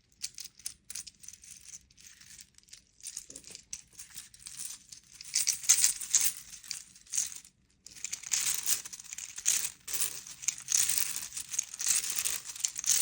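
The jointed plastic segments of a freshly 3D-printed flexi shark clicking and rattling against each other as it is handled and flexed. The result is a dense, irregular, crinkly patter that grows busier and louder about five seconds in.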